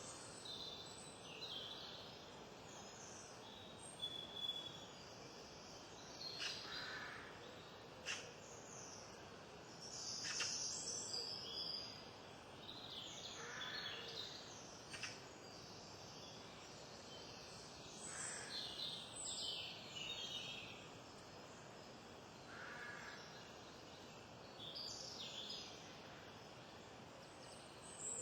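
Wild birds calling and chirping: many short, high calls come at irregular intervals over a faint steady background.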